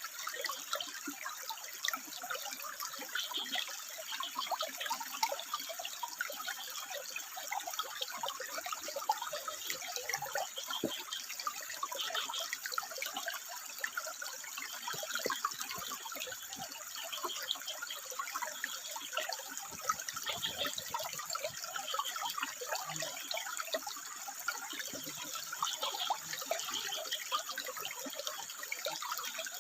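Water trickling and splashing over rocks, a steady, dense burble with many small drips.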